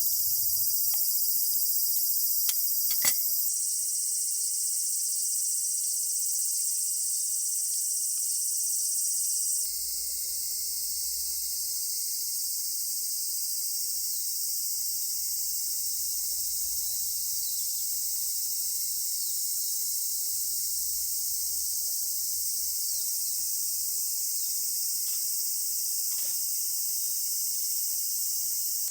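Dense, steady, high-pitched chorus of summer insects, with a few sharp clicks about two to three seconds in. The chorus changes abruptly twice early on.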